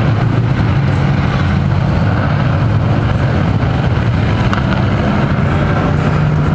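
Race-truck engines running steadily as the field circles the dirt oval at slow pace speed.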